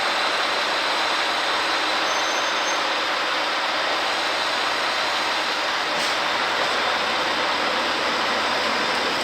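A train running with a steady mechanical noise that holds at an even level, with a faint steady high whine.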